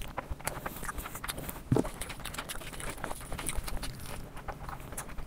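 Close-miked chewing of a mouthful of chicken fried rice eaten by hand: irregular wet mouth clicks and smacks, with one louder low thump nearly two seconds in.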